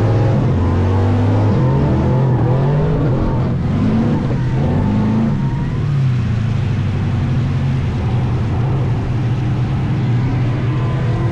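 Burnout truck's engine revving hard, its pitch rising and falling repeatedly during the first half, then running more steadily.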